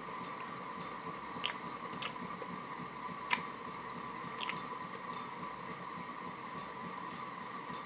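A person chewing a soft taco, with several sharp wet mouth clicks and smacks spread irregularly through, over a steady faint background tone.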